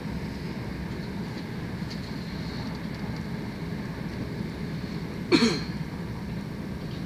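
Steady running noise of an electric commuter train at speed, heard from inside the carriage. A single short, loud burst cuts in about five seconds in.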